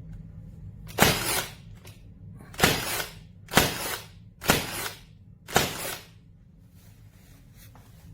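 Battery-powered 14-gauge T-nailer firing five nails, each shot a sharp bang that trails off briefly, about a second apart.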